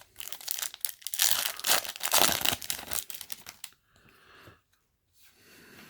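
A foil trading-card booster pack being torn open, with crinkling of the wrapper, loudest a second or two in and stopping a little past the halfway point.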